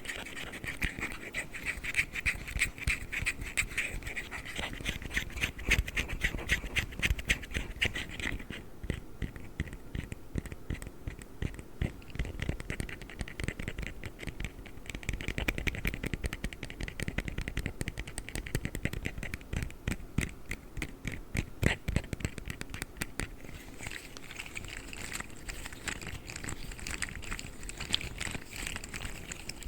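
Fidget slug toys being handled, their jointed plastic segments making rapid, continuous clicking and rattling.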